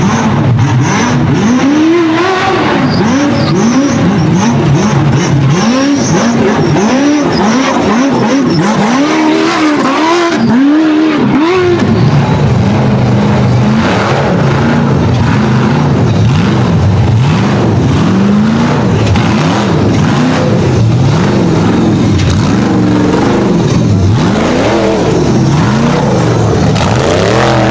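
Off-road race vehicle's engine revving up and down in quick repeated bursts, about one a second, for the first dozen seconds, then running more steadily with occasional revs.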